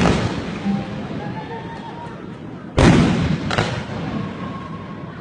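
Fireworks going off in loud sharp bangs. One blast is dying away as the sound begins, then a pair of bangs less than a second apart comes about three seconds in, each trailing off in echo.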